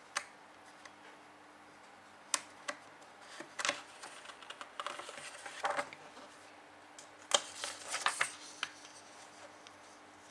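Intermittent scratches and clicks of a pen writing, in short bursts with pauses between them.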